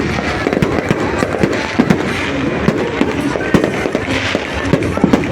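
Large bonfire burning fiercely, crackling and popping constantly with many sharp cracks a second over a steady rushing of flames.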